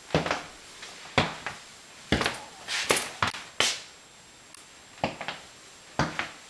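A series of sharp knocks and clicks at irregular intervals, several bunched together about three seconds in, each with a short echo as in a small hard-walled room.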